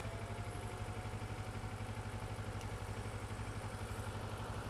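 Kawasaki ER-6f (Ninja 650R) parallel-twin engine idling with a steady, even pulse while the bike waits at traffic lights.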